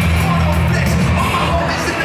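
Live band playing loud music with a singer, heavy bass and drums.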